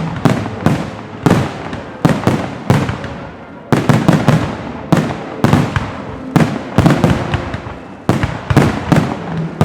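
Fireworks display, firework bursts going off in a rapid barrage of loud, sharp bangs, about two to three a second, each trailing off before the next.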